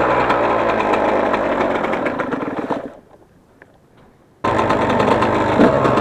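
Yamaha YZ125's single-cylinder two-stroke engine running with a rasping, chainsaw-like buzz; about halfway through the sound dies away to a short quiet gap, then comes back abruptly at full level.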